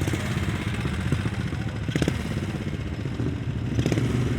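Vintage motorcycle engines running and revving, with a sharp click about two seconds in and the engine sound getting louder near the end.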